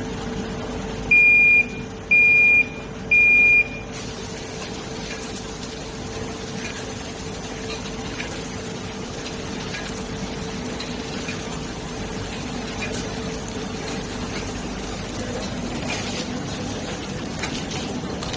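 JK-280 bread-stick packaging machine running with a steady mechanical hum. Three short, high electronic beeps sound about a second in, and faint irregular ticks from the mechanism come through later on.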